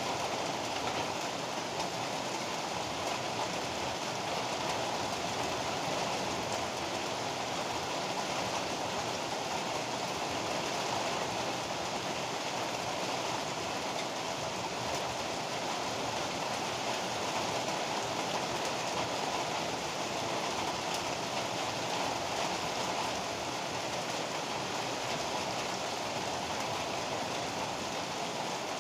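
Heavy rain falling steadily, an even rushing hiss that neither swells nor breaks.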